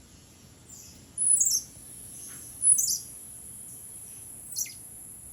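A bird giving three sharp, high chirps that sweep downward, about a second and a half to two seconds apart, the first two the loudest. A steady, very high insect buzz runs underneath.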